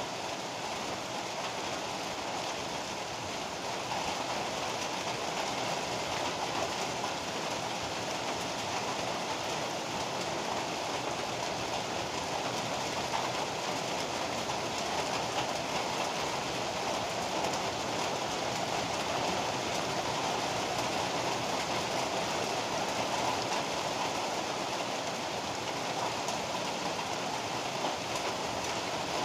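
Heavy rain falling steadily, an even hiss with no distinct claps or bangs.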